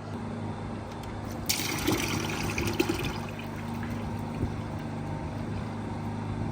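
Diesel flush draining from a 1955 Allis-Chalmers WD45's hydraulic system out of the drain-plug hole into a pan: a steady trickling pour, with a brighter hiss of liquid coming in about a second and a half in, over a low steady hum.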